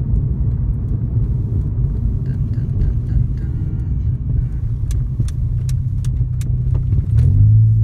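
In-cabin engine and road noise of a 2005 Honda Accord's 2.4-litre four-cylinder on the move: a steady low rumble. A few light ticks sound around the middle. Near the end the engine note strengthens into a clear steady hum as the car pulls away under more throttle.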